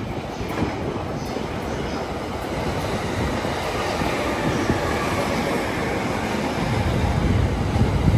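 Electric commuter train moving along a station track: steady wheel-on-rail running noise that grows louder near the end.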